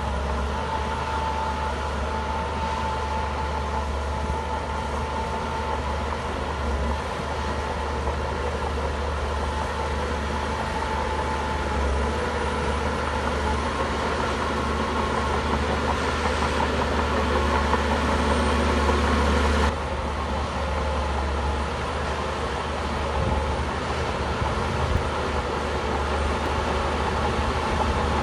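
Bulldozer's diesel engine running steadily, getting a little louder and then dropping off abruptly about twenty seconds in.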